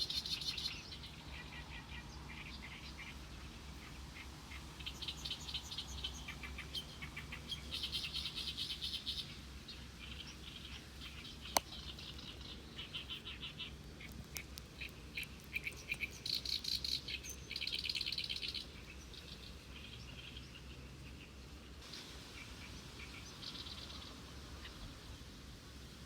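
Songbirds chirping and trilling in repeated short phrases, with one sharp click about halfway through.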